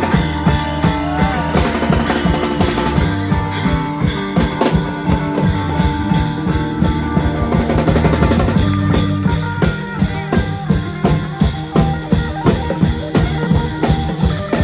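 Klong yao long-drum band music: drums beating a steady, driving rhythm under sustained melody lines.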